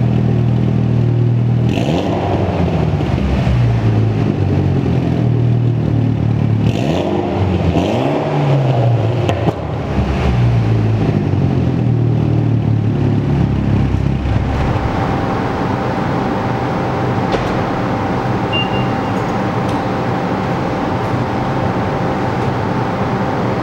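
Tuned Mitsubishi Lancer Evolution X turbo four-cylinder with an Invidia N1 racing exhaust, idling and then revved three times, each rev climbing and falling back. After about 14 seconds the revs give way to a steadier, noisier engine sound.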